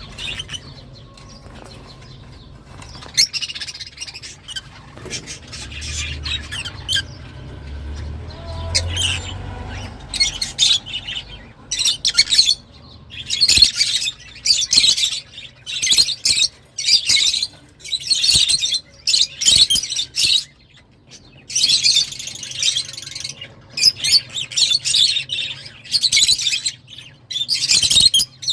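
Lovebirds chattering in sharp, high-pitched chirps and squawks. The calls come scattered at first, then in dense rapid runs from about twelve seconds in.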